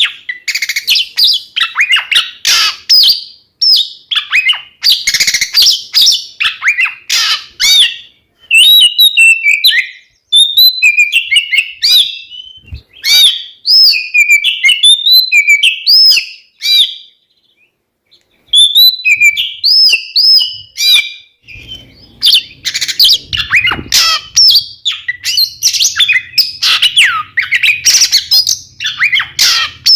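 Two Oriental magpie-robins (kacer) singing: a fast, varied run of loud whistles, chirps and trills, with a short pause a little past the middle. A faint low hum runs under the song from about two-thirds of the way in.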